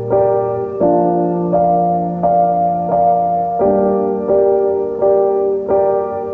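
Background music: a piano or electric keyboard playing gentle, evenly paced notes, about one every 0.7 seconds.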